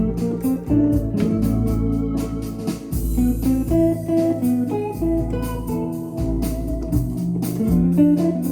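Korg Pa1000 arranger keyboard playing one of its factory styles: a drum beat, bass line and chords with a guitar-like lead.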